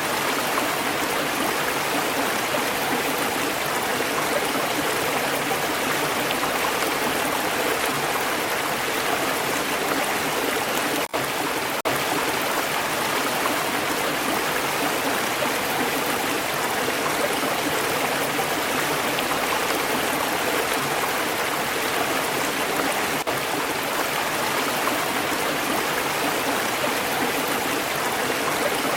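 Stream water flowing and burbling in a steady rush, with two momentary dropouts about eleven and twelve seconds in.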